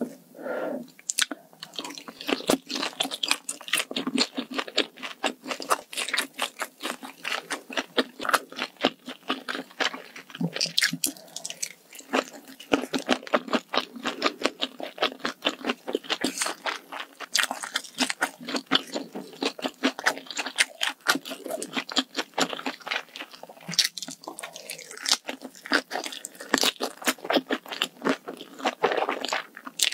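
Close-miked mouth sounds of a person chewing food, with many quick, crisp crunches.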